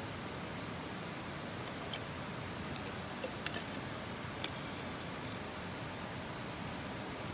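Wood campfire crackling: a few sharp pops and snaps over a steady hiss.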